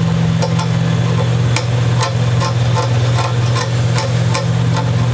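Irregular small clicks and scrapes of a hand blade working old glue out of a guitar's nut slot, over a steady low hum.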